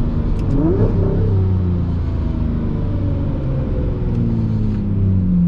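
Lamborghini Murciélago SV's 6.5-litre V12 running at low revs, with a brief rising whine about a second in and the engine note slowly falling in pitch over the next few seconds.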